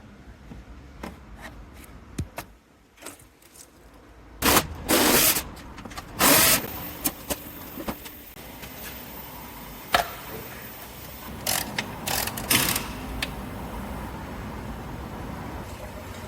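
Hand tools and metal parts being handled: scattered clicks and clinks, with a few short, loud rattling scrapes, over a steady low hum.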